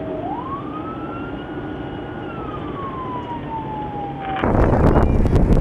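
Emergency vehicle siren wailing, muffled: one slow rise in pitch, held, then a long fall. About four seconds in it cuts off abruptly to loud rustling noise with clicks.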